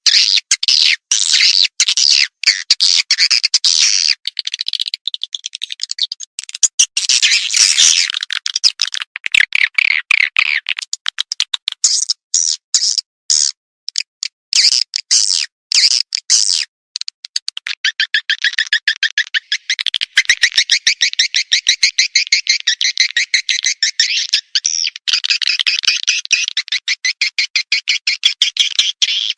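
Swiftlet call-sound recording, the 'suara panggil' lure played in swiftlet houses to attract edible-nest swiftlets: dense, rapid high chirping and twittering, broken every so often by abrupt dead-silent gaps.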